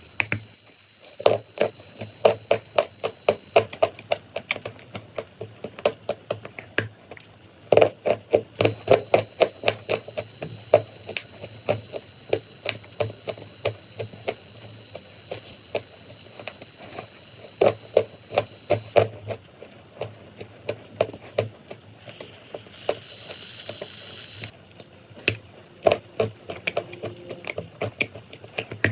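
Chalk and clay being chewed close to the microphone: runs of sharp crunches, about three a second, with short pauses between. A brief soft hiss comes about two thirds of the way through.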